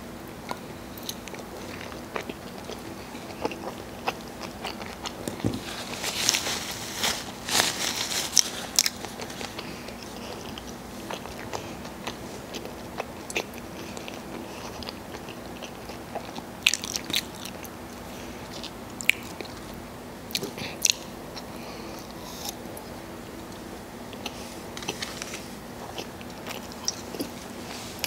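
Close-up chewing and biting of bacon cheese fries: wet mouth sounds with several bursts of sharp, crunchy clicks spread through, over a faint steady hum.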